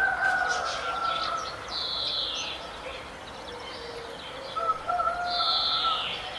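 Several birds singing and calling over one another, with two loud downward-slurred calls, one about two seconds in and one near the end, over steady whistled notes.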